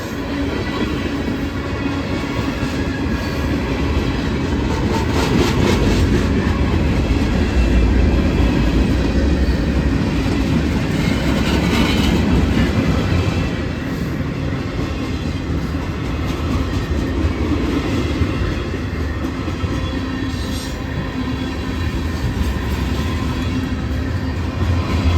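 Freight train cars rolling past with a steady rumble and the clatter of steel wheels on the rails, briefly louder about five and twelve seconds in.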